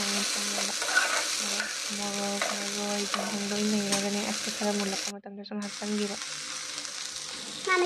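Potatoes, pea pods and tomatoes sizzling in oil in a wok while a spatula stirs them, with a steady low hum underneath. The sound drops out briefly about five seconds in.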